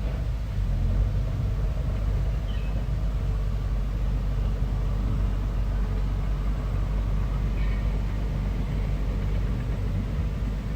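Bulldozer's diesel engine running steadily, a continuous low rumble.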